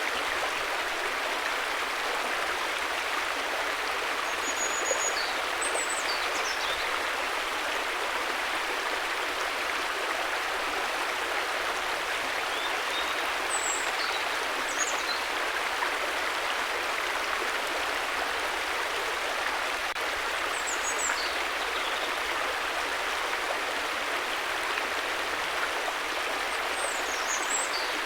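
River water rushing steadily, an even hiss with no change in level. Brief high bird chirps break through it about half a dozen times.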